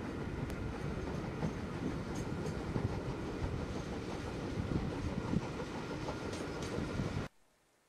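Train running along the track, heard from on board: a steady rumble of wheels on rail with a few sharp clicks from the track. It cuts off suddenly near the end.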